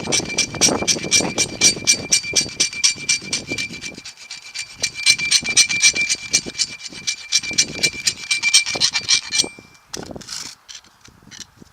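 Rapid back-and-forth hand strokes smoothing steel, about four a second, with a steady high ring from the metal; they stop near the end. This is a burr being dressed off the bore of a truck drive shaft's U-joint, so the new cap will go in without wedging crooked.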